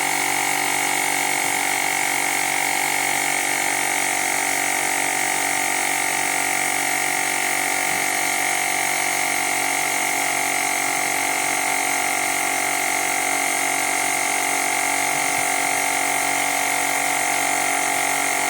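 Woowind AP2-P portable electric tyre inflator's compressor running steadily under load while pumping up a bicycle tyre: a bit noisy, an even mechanical drone with several fixed tones and no change in pitch.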